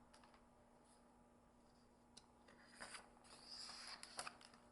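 Near silence, with a few faint, brief rustles in the second half.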